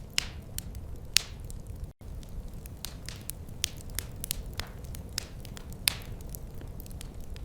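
Wood fire crackling, with irregular sharp pops over a low steady rumble. The sound drops out for an instant about two seconds in.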